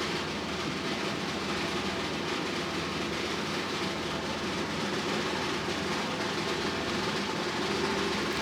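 Steady background rumble and hiss with a faint hum, no distinct events.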